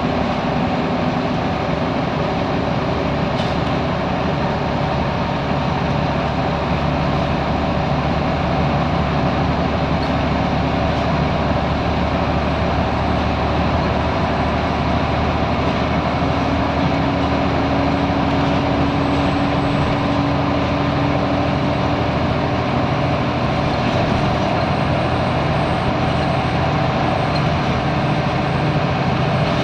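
Scania L94UB Wright Solar single-deck bus running steadily: diesel engine sound with road noise, the engine note drifting slightly in pitch.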